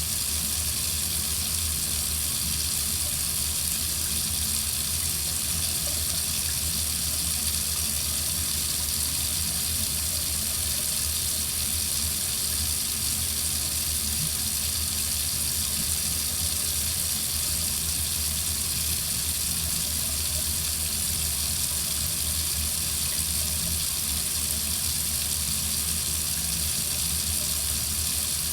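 Water faucet running in a steady, unbroken stream: an even hiss with a low hum underneath.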